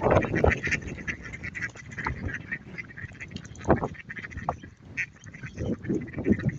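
A flock of ducks quacking and honking, many short overlapping calls, busiest in the first second and then more scattered, with one louder call a little before the four-second mark.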